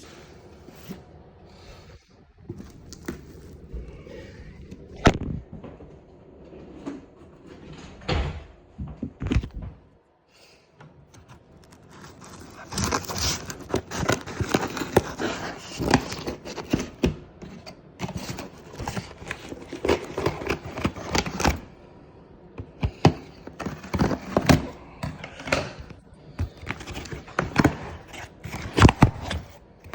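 Irregular knocks, clicks and clattering, with rustling, as parts and tools are handled while working on a go-kart's small engine; the engine is not running. The sounds are sparse at first with a sharp knock about five seconds in, and come thick and fast through the second half.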